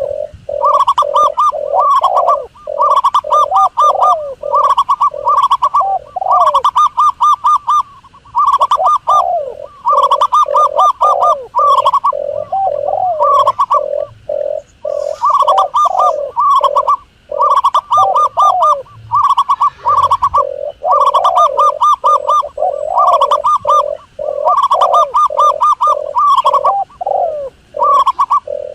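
Doves cooing almost without pause, in phrases a few seconds long: low warbling coos under rapid, repeated higher notes. This is a recorded dove call of the kind played as a hunting lure.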